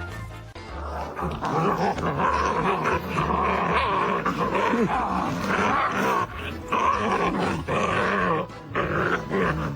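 A dog growling in long, wavering vocalisations with short breaks.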